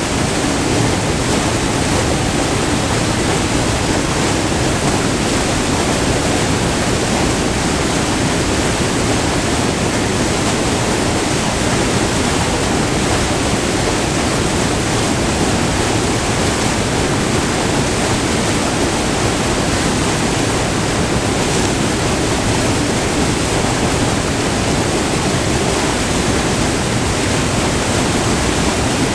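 Close-up rushing white water of a short, multi-tiered river waterfall, a steady full roar with no breaks or changes.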